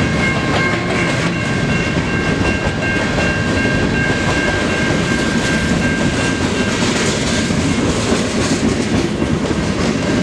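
CN freight train's cars rolling through a grade crossing, wheels clattering over the rail joints with a loud, steady rumble. Several steady high-pitched tones ring over the rumble.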